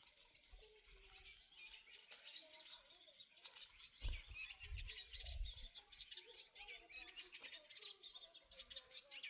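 Small birds chirping and twittering, many quick high notes in a rapid run. A brief low thump comes about four seconds in.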